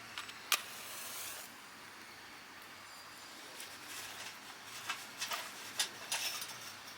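A few sharp clicks and short rustling noises: one loud click about half a second in followed by a brief hiss, then a cluster of clicks and rustles in the second half.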